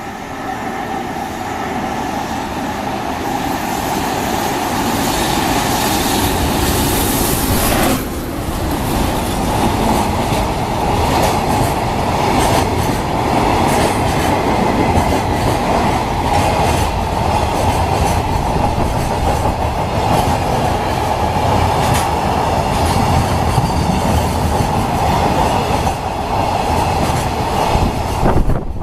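JR Freight EF210 electric locomotive hauling a container freight train past at speed. The noise builds for about eight seconds, drops suddenly as the locomotive goes by, then turns to the steady rumble and clickety-clack of container wagons rolling over the rail joints.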